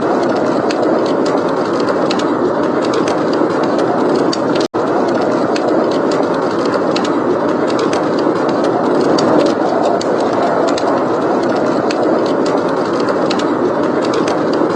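Steady blizzard wind noise with a wood fire crackling in many small, sharp pops. The whole sound cuts out for an instant just under five seconds in.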